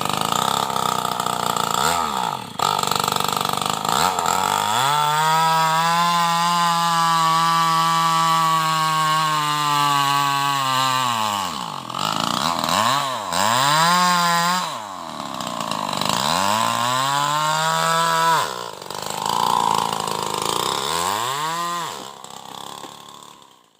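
New West 588 mini chainsaw's small two-stroke engine running at high revs while cutting teak wood. Its pitch sinks and climbs back several times as the chain binds in the cut.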